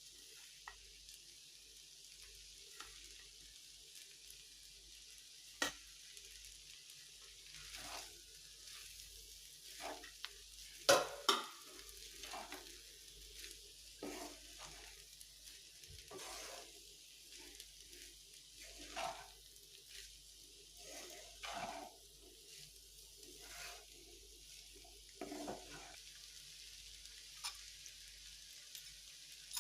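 Food sizzling in a frying pan while a spatula stirs and scrapes through it, at irregular intervals.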